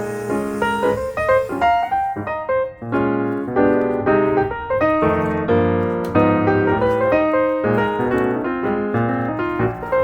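Background piano music: a keyboard playing a busy run of quick notes over a steady lower part.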